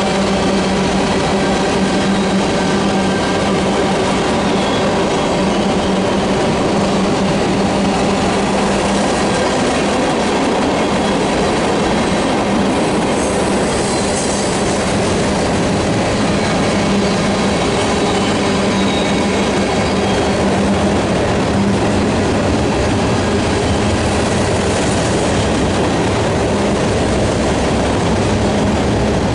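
Freight train cars, covered hoppers and tank cars, rolling past close by: a loud, steady rumble of steel wheels on rail that holds even throughout, with a low steady hum underneath.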